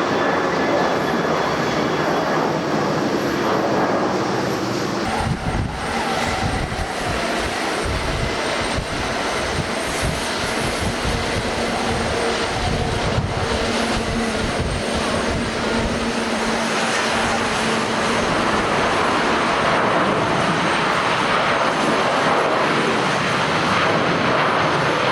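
Jet airliner engines running loud and steady at close range during a takeoff or landing, with wind buffeting the microphone from about five seconds in.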